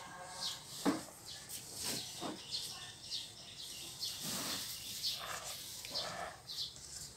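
Birds chirping now and then in the background, with one sharp click about a second in.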